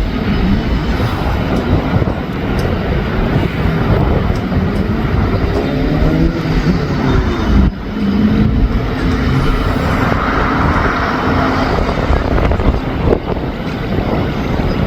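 Strong wind buffeting the microphone, over a vehicle engine running steadily that rises briefly in pitch about six to seven seconds in.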